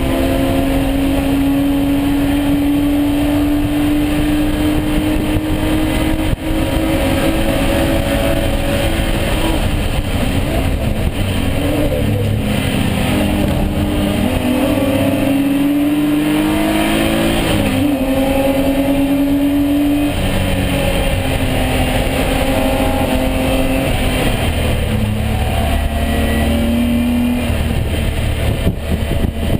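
BMW E36 race car's straight-six engine at racing speed, its note climbing through the revs and stepping down in pitch at each gear change, then falling off and picking up again as the car brakes for corners and accelerates out.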